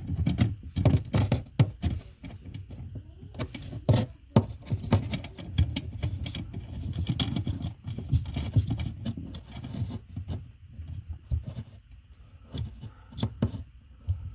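Hands fitting a 1/4-inch compression adapter onto a sink shut-off valve: irregular metal clicks, knocks and scraping.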